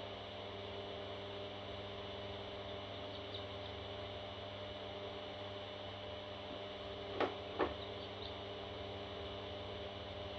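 Steady electrical hum, with two short squawks from a baby parrot a little past seven seconds in, less than half a second apart.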